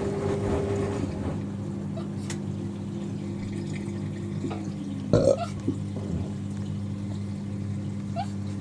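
Two washing machines running together, a Fisher & Paykel WM1490F1 front-loader starting its final spin beside a Hoover Ecologic washer dryer: a steady motor hum with a whine that slides lower about five seconds in. A short, loud gurgle of water comes about five seconds in.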